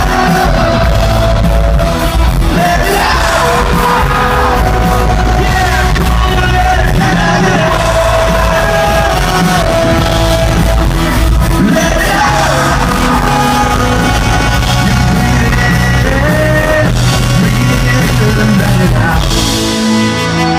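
Live rock band playing loud, with voices singing and yelling over the music.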